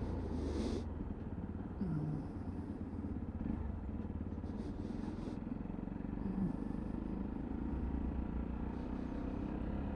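Single-cylinder 125cc Sinnis Terrain motorcycle engine running at low, steady revs.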